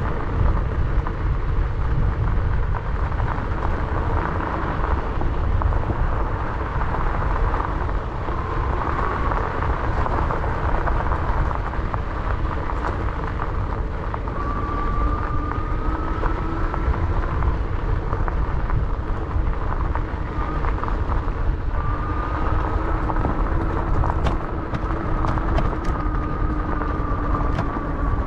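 Wind buffeting a GoPro's microphone on an e-bike riding a dirt trail, with the electric motor's thin whine coming and going and rising slightly in pitch at times. Scattered clicks and rattles from bumps, more of them near the end.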